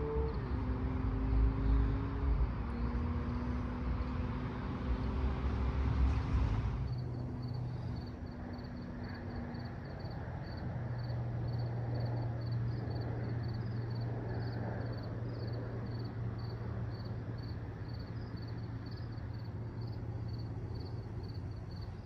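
A motor vehicle's engine running past for the first seven seconds or so, a pitched tone over a deep rumble that cuts off suddenly. Steady outdoor background noise with a low hum follows.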